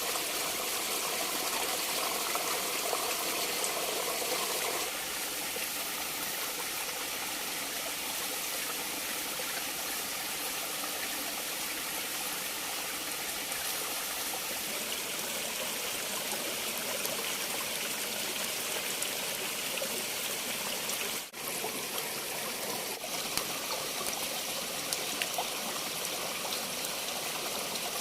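Steady rushing of a flowing stream. It drops a little in level about five seconds in and briefly cuts out about twenty seconds later.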